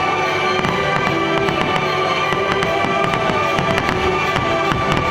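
Fireworks bursting and crackling in quick, irregular succession over loud music with held notes.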